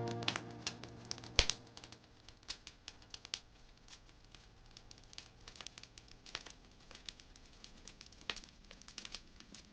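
Wood fire crackling, with irregular small pops and snaps and one louder pop about a second and a half in. A fading musical chord dies away just as it begins.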